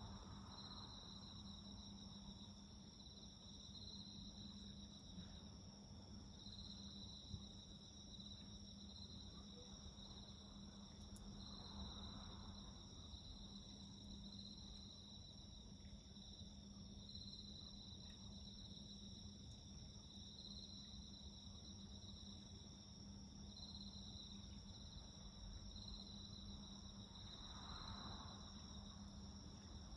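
Faint chorus of insects calling in a garden, one singing in repeated trills of a second or two with short gaps while another holds a steady high note, over a low steady hum. A single sharp click about seven seconds in.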